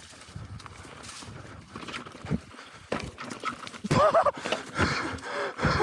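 Mountain bike clattering and knocking as it is ridden over rough trail. A man gives short wordless cries about four seconds in and again near the end.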